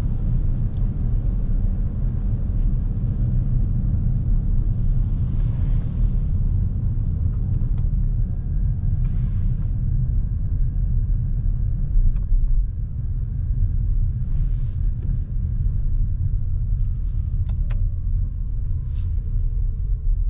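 Steady low road and tyre rumble of a Lexus NX350h hybrid SUV being driven on winter roads. A few short hissing swishes come at about five, nine and fourteen seconds in, and a faint falling whine runs through the last few seconds.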